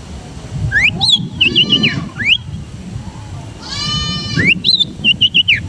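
Long-tailed shrike singing a varied song of quick rising and falling whistled notes. Twice it breaks into a harsh, nasal, rasping call, once about a second and a half in and again near four seconds, over a low background rumble.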